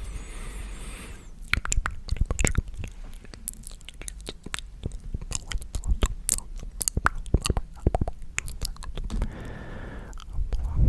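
Close-microphone ASMR mouth sounds: a quick run of wet clicks and smacks, with a breathy whisper in the first second and again shortly before the end.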